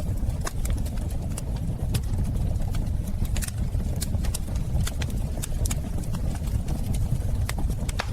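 Wood fire burning in a fireplace: a steady low rumble of flames with frequent, irregular crackles and pops.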